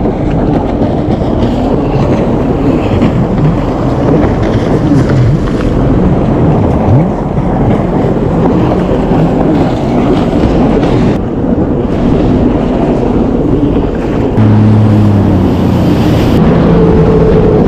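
Jet ski engine running under way, with rushing water and wind noise; the engine note steadies into a clearer pitch about fourteen seconds in.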